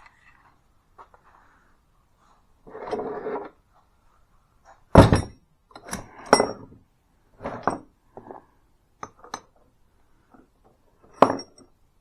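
Metal tools, a hole saw among them, knocked and clinked against each other and set down about eight times, several strikes ringing briefly. A short scrape comes about three seconds in. The loudest knocks are about five seconds in and near the end.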